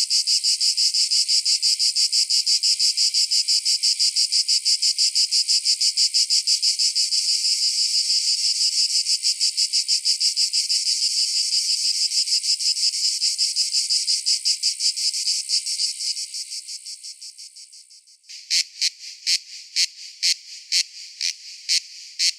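Cicada calling: a loud, high, rapidly pulsing buzz that fades away near the end and gives way to separate sharp clicks at an uneven pace.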